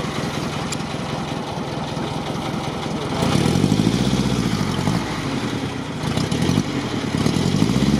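ZAZ-968M Zaporozhets's rear-mounted air-cooled V4 running under load as the stuck car tries to drive forward up a muddy bank. The revs rise about three seconds in, surge and waver, ease off, then rise again near the end.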